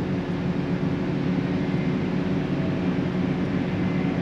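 Steady drone of a harvest machine's diesel engine running under load, an even hum with a few held low tones.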